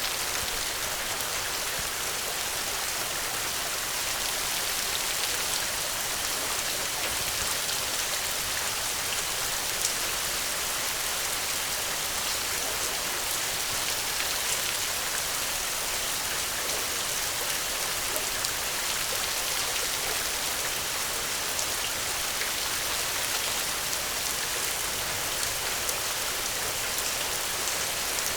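Steady rainfall, an even hiss of rain on surfaces with scattered individual drop ticks.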